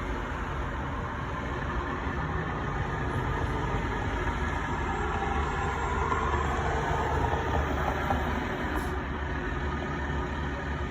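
Dump truck running with a steady low rumble that grows a little louder midway.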